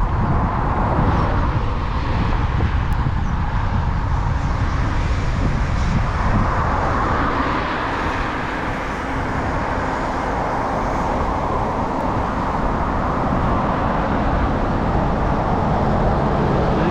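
Steady rushing noise of riding an e-bike: wind buffeting the microphone over the hum of tyres on the track.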